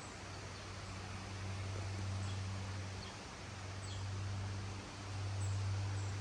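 Gusty wind blowing, rising and falling in strength, with a steady low hum beneath it and a few faint high chirps.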